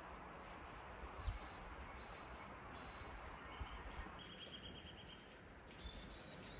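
Small birds calling over soft outdoor ambience: thin high whistled notes, a short trill, then a louder burst of chirps near the end.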